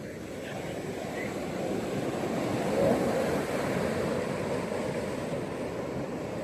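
Ocean surf washing onto a beach: the wave noise swells to its loudest about three seconds in, then eases into a steady wash.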